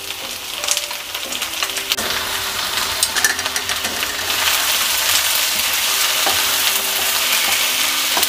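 Split red lentils (masoor dal) poured into hot oil with fried onions and poi stems in a non-stick wok, then stirred with a wooden spatula: steady frying sizzle with short scraping clicks of spatula and lentils against the pan. The sizzle grows louder about four seconds in.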